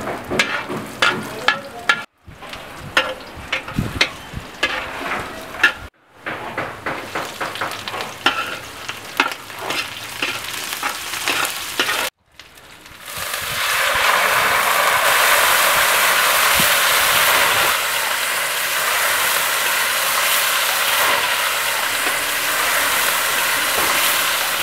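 A metal spatula scrapes and clacks against a steel wok as sliced ginger and red onion are stir-fried in oil, broken off abruptly a few times. About halfway through, a loud steady sizzle takes over as chicken pieces fry in the hot oil.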